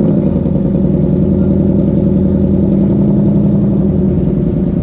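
2019 Ford Mustang Bullitt's 5.0-litre V8 running steadily through its exhaust, with an even, unchanging engine note and no revving.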